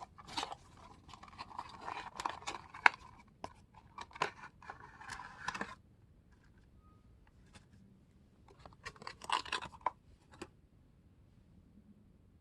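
Candy-toy packaging being handled and opened by hand: crinkling, scratching and tearing with sharp clicks. There is a long stretch of it, a pause of a few seconds, then a shorter stretch.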